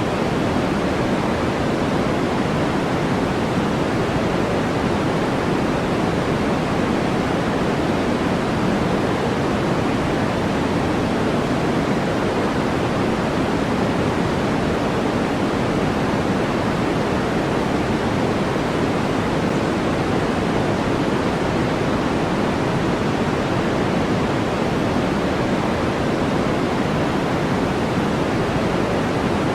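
Steady generated white noise of a sleep and focus track: an even, unchanging rushing hiss, fuller in the lows and middles than in the treble.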